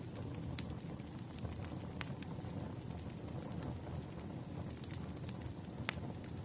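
Burning firewood: a steady low rumble of flames with sparse sharp crackles and pops, the loudest pop about six seconds in.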